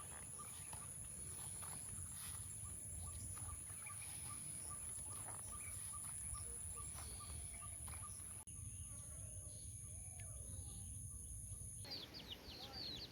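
Outdoor countryside ambience: a low wind rumble, a steady high-pitched whine and a faint chirp repeating a few times a second. The sound changes abruptly twice, and in the last second birds twitter with quick falling chirps.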